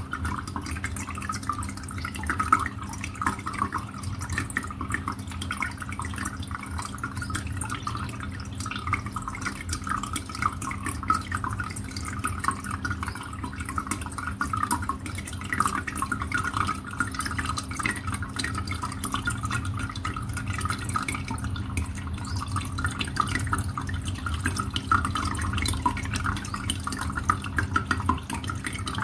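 Water dripping and trickling steadily into a bird watering hole, a continuous patter of small drops, with a steady low hum underneath.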